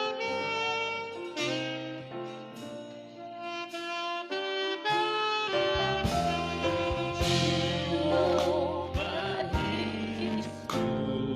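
Saxophone playing a slow worship melody in long held notes over a soft accompaniment. About five and a half seconds in, a bass line and percussion hits join and the music grows louder and fuller.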